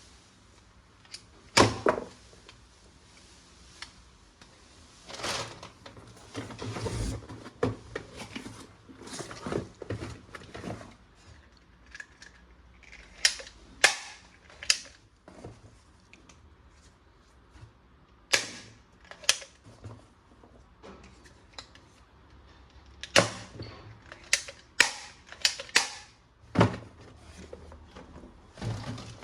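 Plastic toy guns being handled: sharp plastic clicks and snaps at irregular intervals, with softer rustling and handling noise between them.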